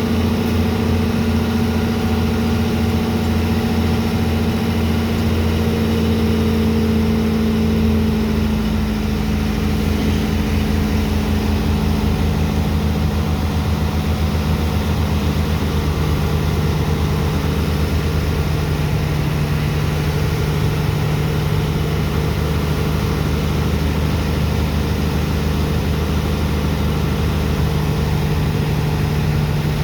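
Heavy engine of a sand-unloading dredger pump running steadily. Its pitch drops somewhat about eight to twelve seconds in, then holds steady.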